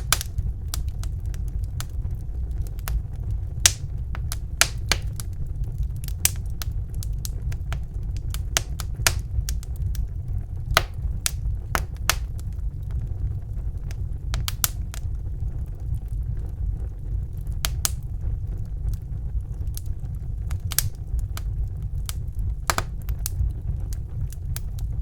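Wood fire crackling in a fireplace: irregular sharp pops and snaps, a few every second at uneven spacing, over a steady low rumble.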